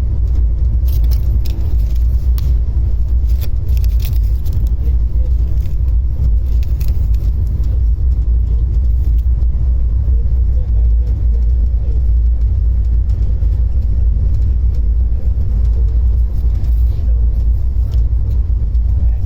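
Steady low rumble of a moving passenger train heard from on board, with a few light clicks and rattles in the first few seconds.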